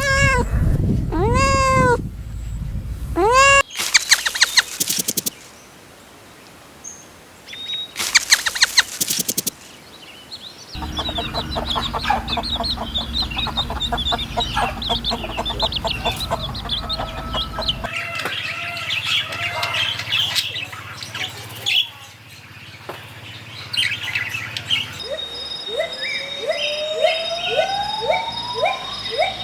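A few bleats at the start, then after some brief noisy flurries, a long stretch of many birds chirping over a low steady hum.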